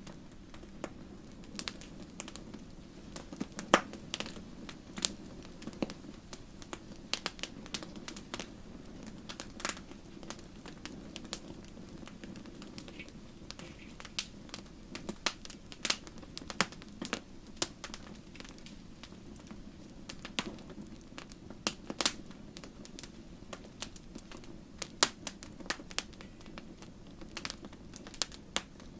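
Wood campfire crackling: irregular sharp pops and snaps, several a second at times, over a steady low rumble of burning.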